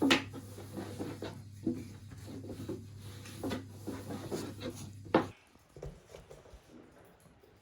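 Irregular knocks, taps and rubbing of hands and utensils at baking work, over a steady low hum. The hum cuts off suddenly about five seconds in, after which only a few faint taps remain.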